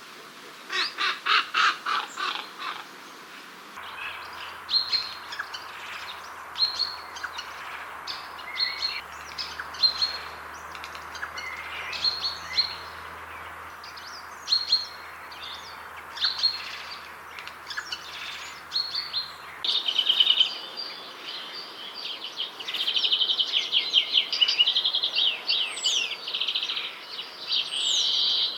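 Songbird calls from a run of field recordings. A few harsh, repeated calls open it, then short separate chirps follow about once or twice a second. From about two-thirds of the way in there is dense, continuous twittering with a few rising whistles.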